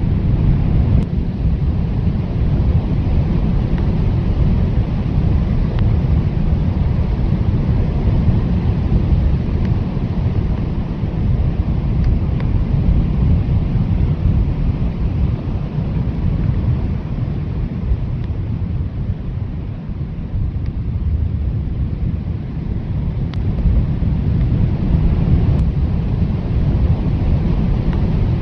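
Blizzard wind blowing hard, a steady deep rush of gusting noise that eases a little about two-thirds of the way through and builds again near the end.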